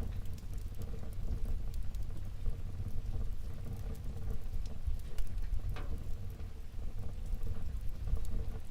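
Wood fire burning in a fireplace: a low steady rumble of the flames with scattered small crackles and pops, one sharper pop a little before the six-second mark.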